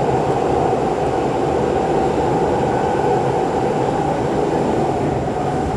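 SMRT C651 metro train heard from inside the carriage while running at steady speed: a continuous rumble of wheels on rails with a steady whine in it.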